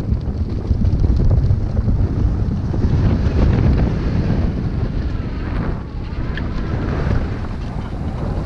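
Heavy wind buffeting the microphone, with motocross bike engines revving and easing off faintly underneath through the middle.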